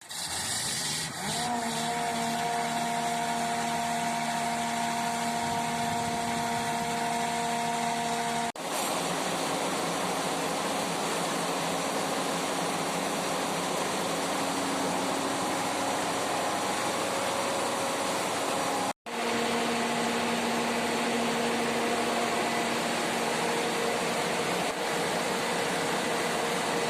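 Diesel generator set powered by a YaMZ engine running loudly and steadily, a dense mechanical noise with a steady whine of several tones. The tones rise slightly about a second in and then hold steady. The sound breaks off sharply twice, briefly each time.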